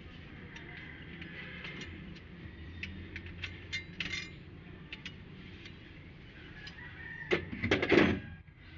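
Metal hand tools and engine parts clicking and clinking during engine work, with a louder metallic clatter near the end.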